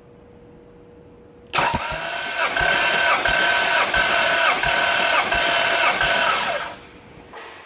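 Toyota 2JZ-GTE VVT-i inline-six turned over by its starter motor for about five seconds during a compression test: a steady starter whine that pulses with a low thump about every 0.7 s as the engine cranks without firing. It starts abruptly and stops abruptly.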